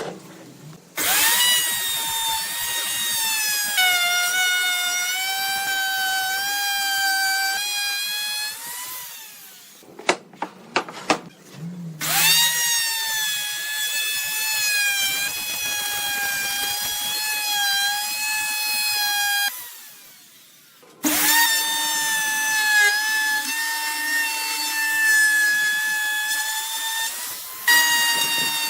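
High-speed power tool working wood, a motor whine whose pitch sags and wavers as it cuts. It runs three times for several seconds each, with short pauses between, and a few knocks in the first pause.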